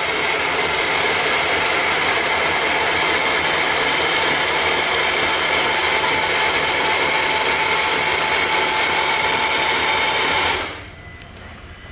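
Milling machine cutting into a metal plate: a loud, steady whirring with a high ringing tone that holds level, then stops near the end as the cut finishes.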